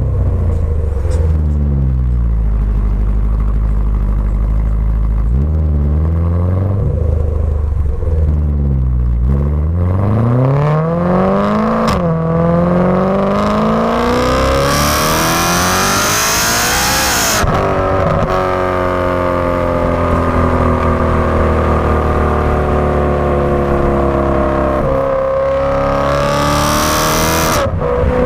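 Supercharged BMW M3 V8 through a Remus Race exhaust: it runs low, is blipped up and down twice, then pulls hard through a gear change with a high whine rising over the exhaust note, lifts off and slowly falls, and pulls hard again before cutting off near the end.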